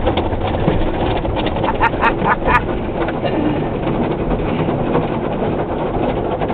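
Soft-cloth strips of an automatic car wash rubbing over the car, heard from inside the car: a steady wash noise with a quick run of about four squeaks about two seconds in.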